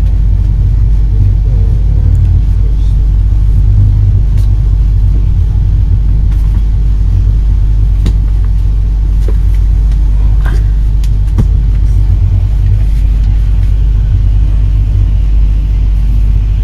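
Steady low rumble of an Intercity passenger coach rolling through a station, heard from inside the carriage, with a few short sharp clicks over the middle of the stretch.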